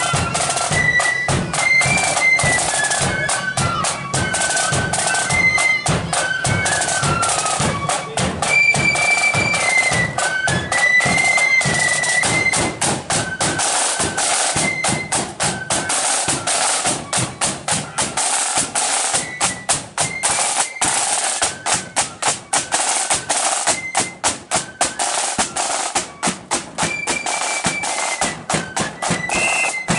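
Marching flute band playing: flutes carry a shrill, high melody over the rapid beat of snare and bass drums.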